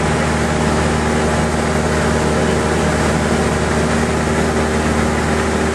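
Cessna 172's piston engine and propeller running steadily in flight, heard from inside the cockpit as an even drone.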